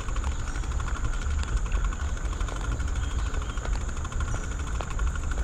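Steady low rumble of wind buffeting the microphone together with road noise while riding a bicycle, with a few faint ticks.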